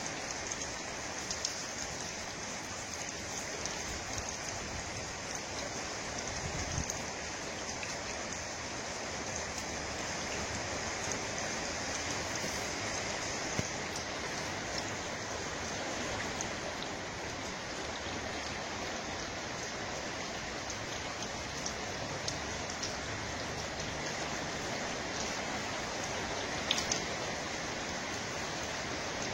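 Steady, even rushing noise of water, like rain or a running stream, with a few faint ticks.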